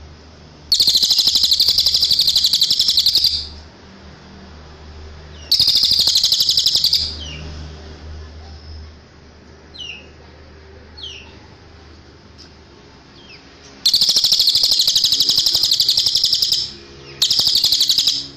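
Cililin songbird singing: four loud, rapid high trills of a few seconds each, wavering slightly in pitch, with a couple of faint short chirps between them.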